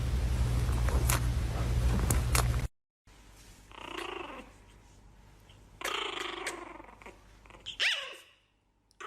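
A loud, dense noisy stretch cuts off suddenly about two and a half seconds in. Then a pet animal growls and cries in three short bouts, the last one rising and falling in pitch.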